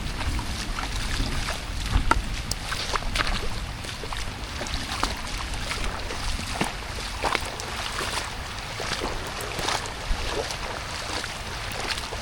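Rain outdoors: irregular drips and splashes of water, with wind rumbling on the microphone.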